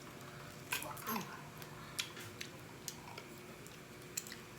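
Close-up eating sounds: a few sharp mouth clicks and soft chewing as the bread is tasted.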